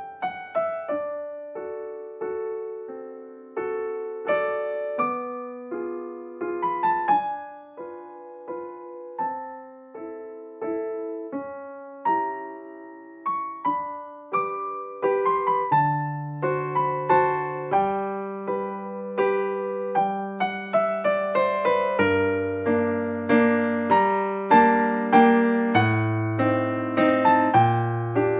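Background piano music: a gentle melody of struck, decaying notes, with a lower bass line joining about halfway through and the playing growing fuller near the end.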